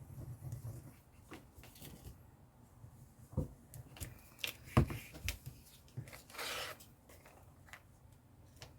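Paper and craft materials handled on a desk: scattered light taps and clicks, a sharper knock about five seconds in, and a brief papery rustle about a second later.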